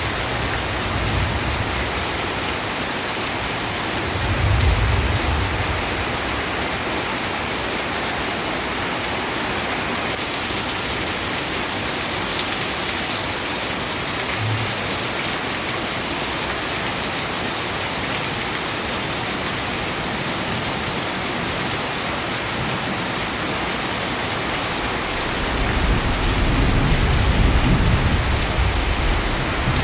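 Steady heavy rain falling. Low rumbles of thunder swell about four seconds in and again near the end.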